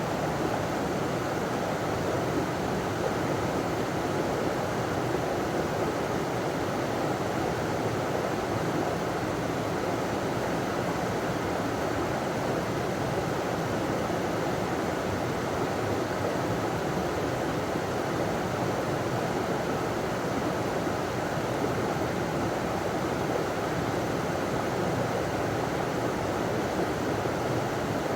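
A river pouring over a small waterfall: a steady rush of running water with no change.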